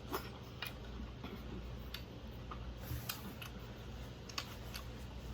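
Small, irregular clicks and smacks of someone eating close to the microphone, a few a second over a faint steady hum.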